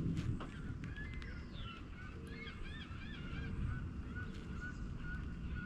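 Birds calling: short repeated high notes throughout, with a run of quick rising-and-falling chirps about two to three seconds in, over a steady low rumble.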